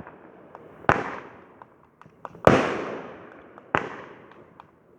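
Fireworks bursting: three sharp booms about a second or so apart, each trailing off in a long fading echo, the middle one the loudest, with a few small crackles between them.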